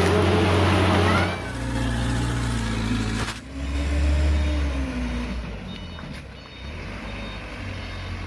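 A loaded sand dump truck's engine running hard, loud and noisy for about the first second. It then settles, rises in pitch again between about three and a half and five seconds, and eases back to a steadier, quieter running.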